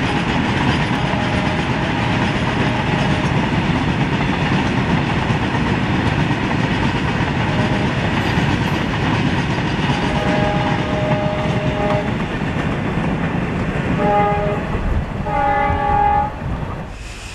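A long freight train of rail tank wagons rolling past, its wheels rumbling and clattering on the track. A locomotive horn sounds about ten seconds in, then twice more in short blasts near the end as the last wagons pass.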